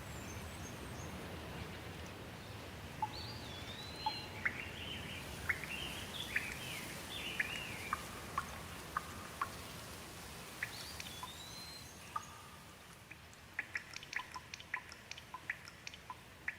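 Steady light rain with a bird calling over it in short swooping phrases. Near the end the rain hiss eases and quick, separate water drips take over.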